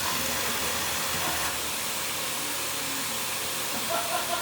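Household vacuum cleaner running steadily, a constant rushing hiss of suction.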